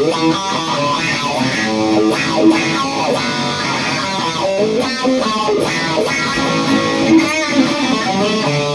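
Squier Stratocaster electric guitar played clean on its bridge Seymour Duncan Hot Rails pickup, through an amp modelling a clean Fender Twin, playing a run of notes and chords.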